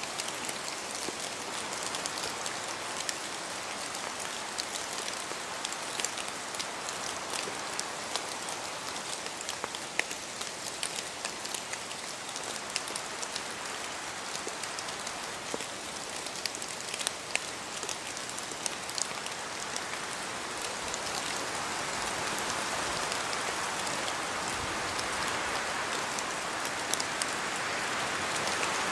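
Steady rain falling through forest trees, with many separate drops tapping and pattering over a continuous hiss. The hiss swells louder over the last several seconds.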